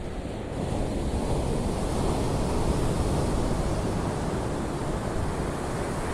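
Ocean surf breaking on a beach: a wash of waves that swells about half a second in and slowly subsides.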